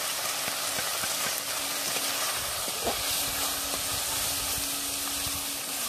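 Meat frying in a pan, a steady sizzling hiss.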